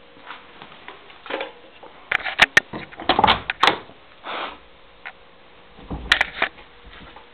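A few sharp clicks and knocks among short rustling handling noises, the loudest cluster a couple of seconds in and another near the end.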